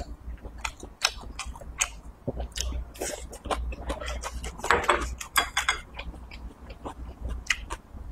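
Close-miked chewing: a steady run of short mouth clicks and smacks as a mouthful is chewed.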